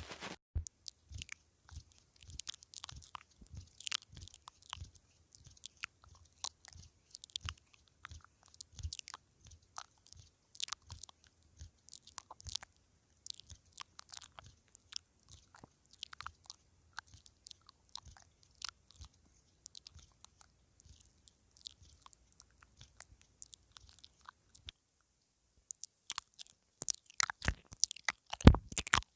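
Mouth nibbling on a clip-on lavalier microphone, heard close up: quiet, irregular clicks and smacks of lips and teeth on the mic. There is a short pause about two-thirds of the way through, then a louder, faster run near the end.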